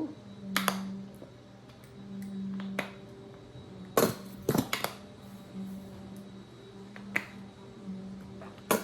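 Sharp knocks and clicks, about six spread unevenly, from a jar of mayonnaise being shaken and tapped to get the mayo out into a bowl. A steady low hum runs underneath.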